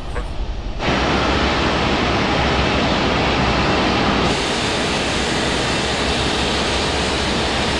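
Steady rushing jet aircraft noise that starts abruptly about a second in and turns brighter and more hissy about four seconds in.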